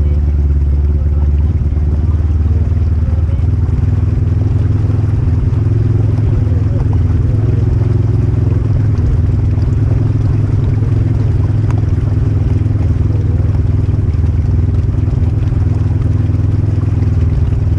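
Polaris RZR Highlifter 1000 side-by-side's engine running steadily at an even pace, with no revving up or down.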